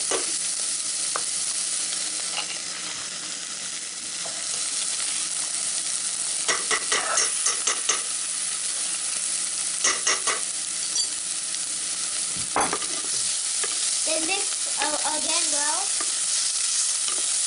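Onions, green chilies and ginger-garlic paste sizzling steadily in hot oil in an aluminium pot. A wooden spatula scrapes and stirs against the metal in short bursts, once about a third of the way in and again about halfway through, with a single knock soon after.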